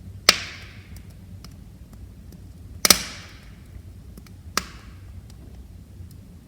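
Wood fire in a fireplace crackling: three loud sharp pops, the middle one doubled, each trailing off in a short hiss, with faint small ticks and a low steady rumble of the flames between them.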